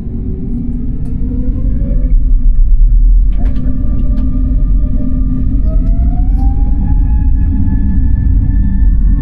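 Airliner jet engines spooling up to takeoff thrust, heard from inside the cabin: a heavy low rumble that grows louder, with a whine that rises in pitch for several seconds and then holds steady. A few sharp rattles come about three seconds in.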